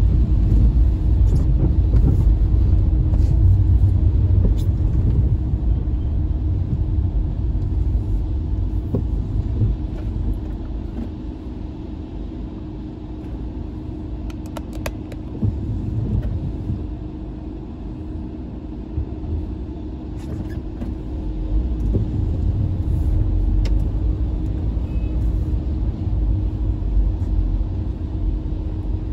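Car driving in slow traffic: a steady low road-and-engine rumble with a constant hum, growing louder and quieter as it moves. A few light clicks about halfway through.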